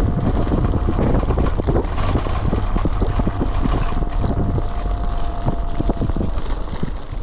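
Wind buffeting the microphone on a moving Kugoo Kirin V3 Pro Plus electric bike, with many short creaks and knocks as it rides over the surface, which the rider puts down to the spring under the seat. A thin steady whine sounds for about three seconds from around the middle.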